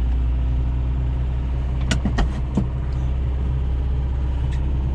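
Carbureted truck engine running just after a cold start, idling fast on choke. A few short clicks sound about two seconds in and once more near the end.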